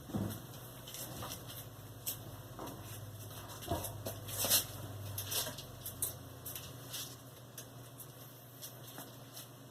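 Electrolux LAC16 washing machine on its silent cycle: a low motor hum starts, runs for about six seconds and dies away, with light clicks and taps from the drum and its load. In this mode the machine runs in short bursts and then pauses.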